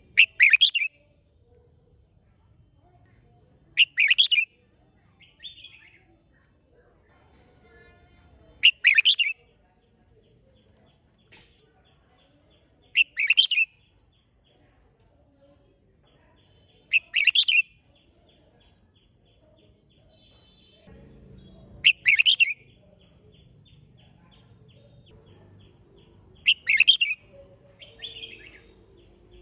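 Red-whiskered bulbul singing short, loud phrases, seven of them spaced about every four to five seconds.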